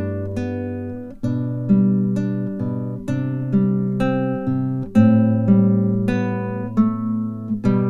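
Music played on a plucked acoustic guitar: notes and chords picked one after another, roughly one or two a second, each ringing and fading before the next.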